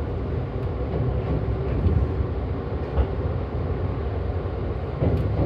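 Joetsu Line passenger train running slowly, a steady rumble with single clunks about three and five seconds in.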